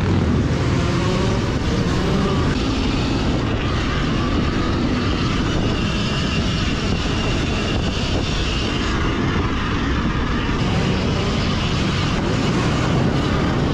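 Dirt bikes riding laps on an indoor motocross track: steady, loud motor and wind noise without a break.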